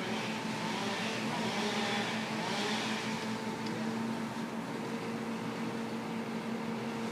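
An engine running steadily at a constant pitch, with a hissing swell between about one and three seconds in.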